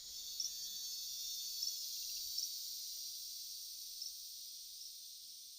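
Rainforest insect chorus: a steady high-pitched drone, with a handful of short chirps sounding over it at irregular intervals, slowly fading towards the end.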